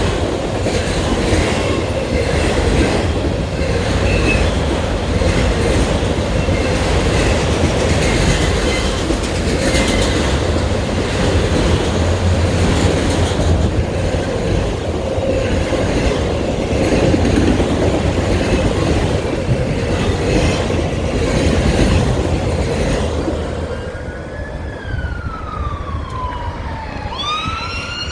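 Freight train of car-carrier railcars rolling past: a steady loud rumble of wheels on rail with clickety-clack and occasional high wheel squeal. The train noise eases about 23 seconds in, and a wailing siren starts near the end.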